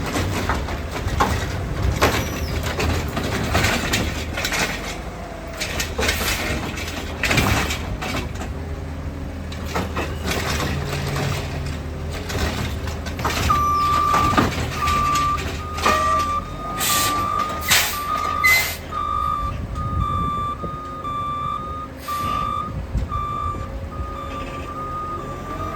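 Heil Rapid Rail automated side-loader garbage truck running, with clanks and bangs from its body and arm. About halfway through, its backup alarm starts beeping at a steady pace, and a few short hisses of air follow.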